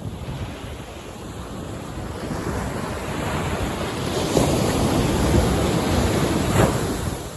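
Ocean surf: a wave builds and breaks, washing in loudest in the second half before falling away near the end.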